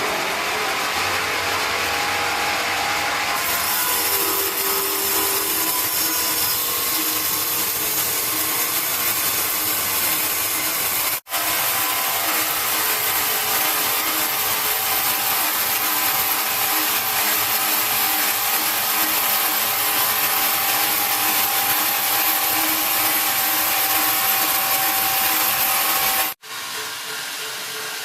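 Large sawmill saw cutting through timber: a loud, steady cutting noise with a high hiss. It breaks off abruptly twice, about eleven seconds in and near the end.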